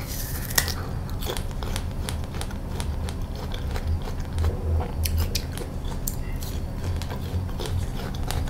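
Close-miked biting and chewing of crisp wax apple: a run of sharp, wet crunches, the sharpest about half a second in, then steady chewing.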